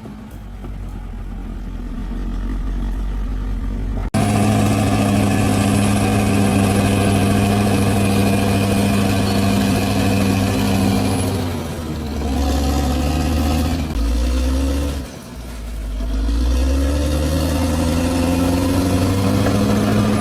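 Large bulldozer's diesel engine working under load. The sound jumps louder about four seconds in, and later the engine note sags twice and climbs back up as it revs again.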